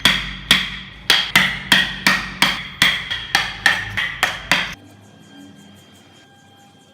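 A carving chisel struck rapidly and steadily with a hammer, about three ringing blows a second, cutting into wood. The blows stop about two-thirds of the way through.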